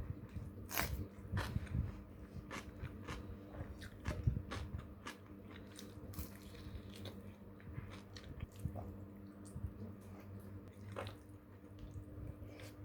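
A person chewing and crunching food with the mouth close to the microphone, a run of sharp crunchy bites in the first few seconds, then slower chewing with a few more crunches near the end.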